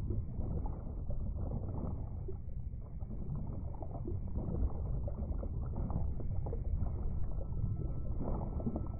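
Underwater sea-floor ambience: a steady low rumble with scattered faint clicks, and a faint steady high tone coming in near the end.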